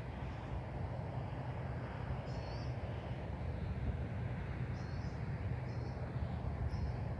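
Steady low outdoor rumble, with several short high bird chirps scattered through it.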